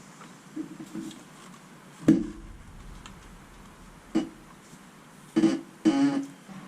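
Hard objects being handled: a handful of sharp knocks and clunks, the loudest about two seconds in, and a short rattling clatter near the end.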